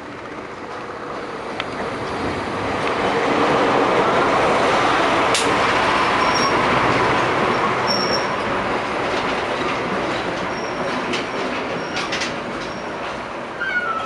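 A passenger train with a BB304 diesel-hydraulic locomotive passing close by: the rumble builds over the first few seconds as the locomotive goes past, then the coaches roll by with wheel clatter and clicks and several brief high-pitched wheel squeals.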